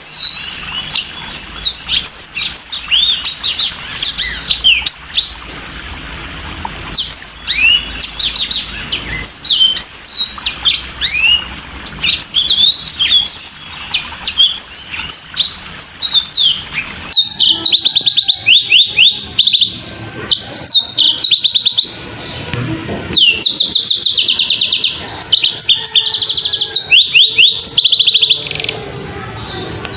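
Yellow-fronted canary singing: a long, continuous twittering song of quick sweeping notes. About halfway through it switches abruptly to fast trills of rapidly repeated notes, sung in short runs with brief gaps.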